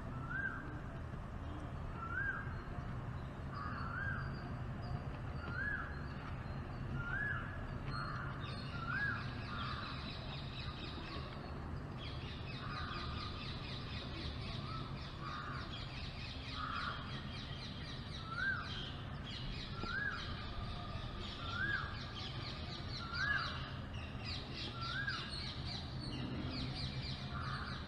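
A bird repeating the same short call about every one and a half seconds, and from about nine seconds in a fast, high chattering trill joining it, over a steady low hum.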